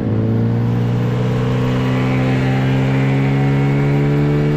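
A 9.8 hp outboard motor running flat out in a race, a loud steady engine note that edges slightly higher in pitch as the boat gathers speed.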